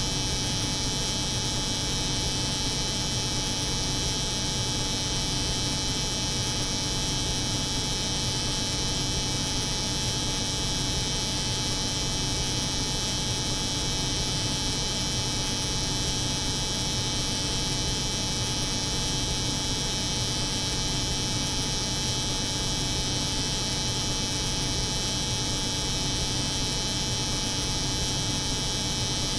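Electric hair clipper buzzing steadily, layered with the hum of a cold room's refrigeration unit, as a continuous unchanging drone.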